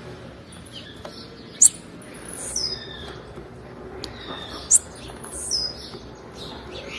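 Blue-black grassquit (tiziu) calling: two loud, very short, high notes about three seconds apart, among softer high chirps that drop slightly in pitch.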